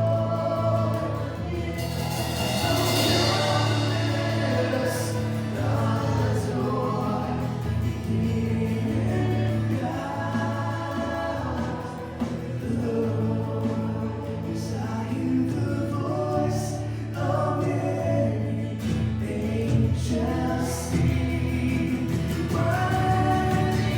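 Worship music: many voices singing together over a sustained instrumental backing, with a cymbal swell a few seconds in.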